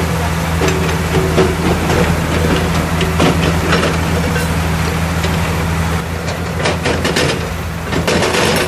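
Heavy diesel engine of an excavator running steadily, with scattered knocks and clanks of the machine working, more frequent near the end.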